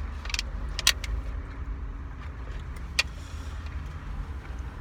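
Steady low rumble of a car cabin with the windows down. A few sharp clicks come through it: one about half a second in, a louder one near one second, and another at about three seconds.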